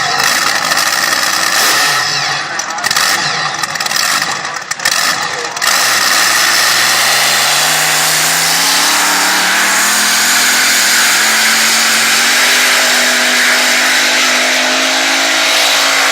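Pulling tractor's engine at full throttle under load, going from uneven engine noise to a sudden steady full-power run about six seconds in, its pitch climbing slowly for the next ten seconds as it drags the sled.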